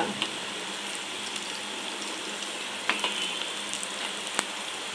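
Chopped onion, garlic and green chillies sizzling steadily in hot oil in a non-stick kadai, with a few faint clicks.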